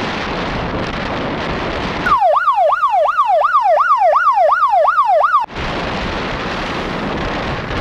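A loud rushing noise like wind on a microphone cuts out about two seconds in. It gives way to an electronic siren sound effect: one clean tone swooping up and down about three times a second. After some three seconds the siren stops abruptly and the rushing noise returns.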